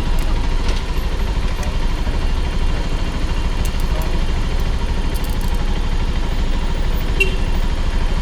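Motorcycle engine running steadily at low revs, with an even rapid pulse.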